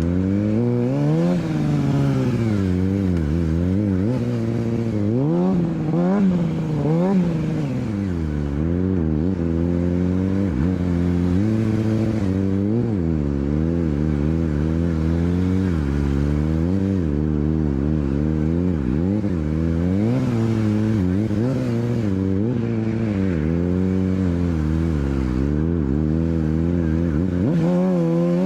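Motorcycle engine revved up and down over and over, its pitch rising and falling every second or two over a steady low hum, as in wheelie and stunt riding.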